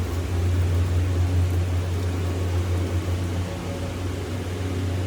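A machine running steadily: a deep, even hum with a hiss over it.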